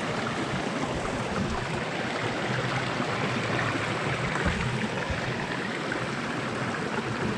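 Rain-swollen stream pouring steadily over a small rock waterfall, with a constant rushing and splashing of water.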